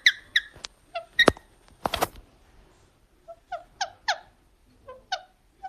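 Pet parrot giving a series of short, squeaky chirps in two clusters, with a pause a couple of seconds in. A sharp click about a second in and a brief scraping burst near two seconds come between them.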